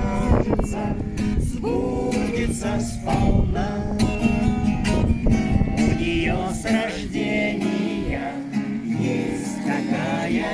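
Acoustic guitar strummed with singing along, a song played live.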